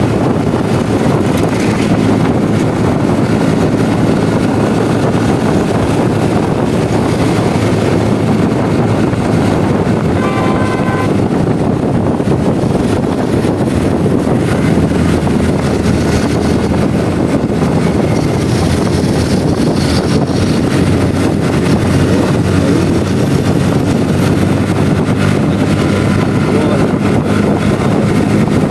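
Motorcycle engine running steadily while riding at speed, with heavy wind noise on the microphone. A brief beeping tone sounds about ten seconds in.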